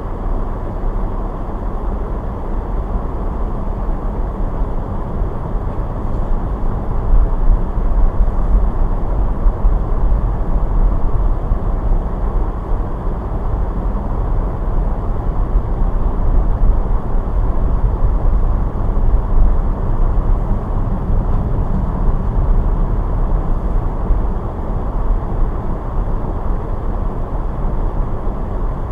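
Car driving on snow-covered roads: a steady low rumble of tyre and engine noise, swelling slightly and falling back without any sharp events.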